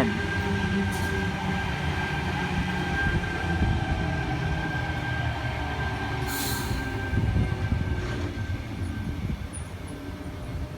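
Sydney Trains Tangara electric train running in along the platform and slowing, a steady low rumble under a thin high whine that fades away about eight seconds in. A brief hiss of air comes about six seconds in.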